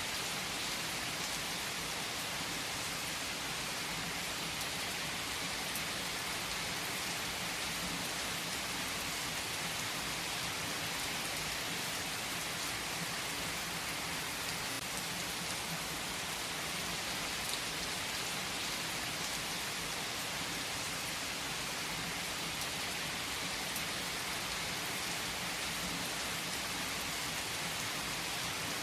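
Steady rain falling on a surface: an even hiss of many drops, with the odd louder drop ticking now and then.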